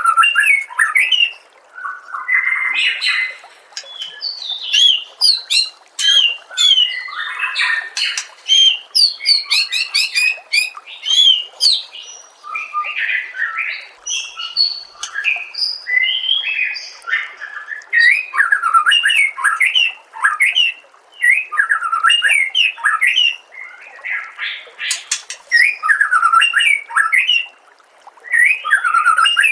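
White-rumped shama (murai batu) singing a loud, varied song of rapid whistled phrases with short pauses, some notes very high-pitched.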